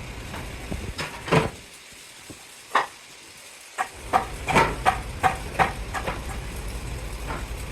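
A series of sharp metal clanks and knocks at irregular intervals, several ringing briefly, over a low rumble that drops away for about two seconds in the middle. The clanks come thickest in the second half, about a dozen in all.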